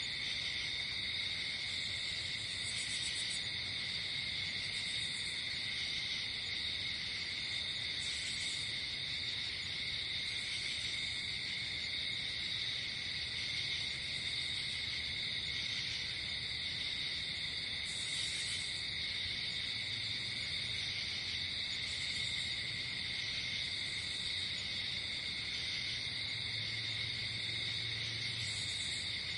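Night-time insect chorus: a steady high trilling that does not let up, with short, higher chirps every couple of seconds.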